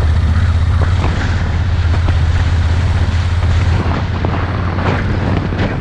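Vehicle engine running steadily under wind rumble on the microphone, with scattered knocks from the vehicle moving over a rough track. The low engine hum drops off about four seconds in.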